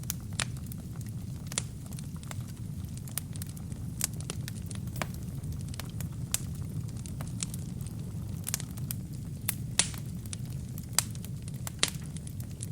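Wood fire burning in a fireplace: a steady low rumble of the flames with irregular sharp crackles and pops from the burning wood, a few louder pops near the end.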